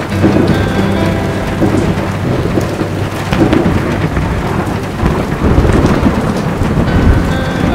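Heavy rain falling steadily, with thunder rumbling. The rumble swells about a second in and again, strongest, a little past the middle.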